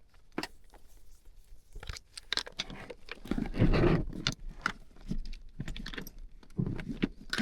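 Clinks, knocks and rustling of hand tools being handled and gathered up, with a louder scuffling stretch about three seconds in.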